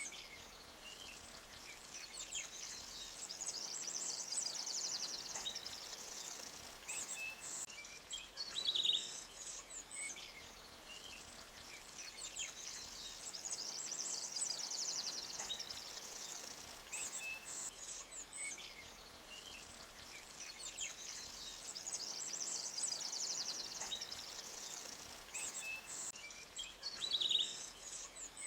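Forest birdsong of short chirps and fast high trills over a faint steady background hiss. The same sequence comes round about every nine seconds, as a loop.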